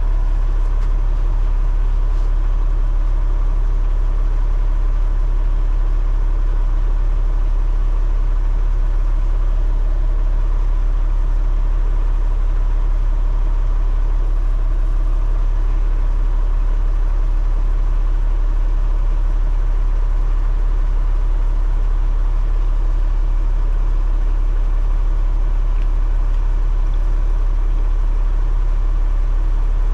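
Semi truck's diesel engine idling, a steady low rumble that holds even throughout.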